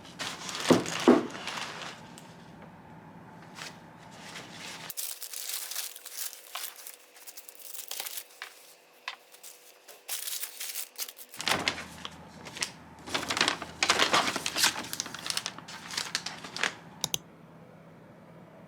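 Crinkling and rustling of wrapping being handled, in irregular bursts with a few light clicks and knocks.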